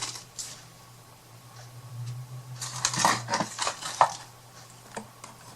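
Small chipboard craft pieces clattering and clicking as they are rummaged through and handled, a quick cluster of light knocks about two and a half to four seconds in, the sharpest near the end of it.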